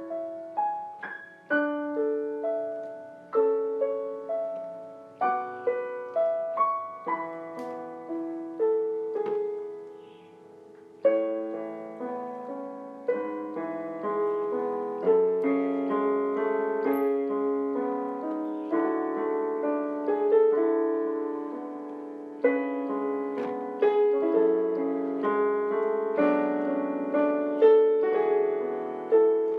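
Background piano music: a slow, gentle melody of single struck notes, then fuller chords after a short pause about ten seconds in.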